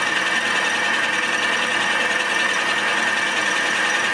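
Milling machine running a cutter through a light facing cut, a steady machining whine with a high tone.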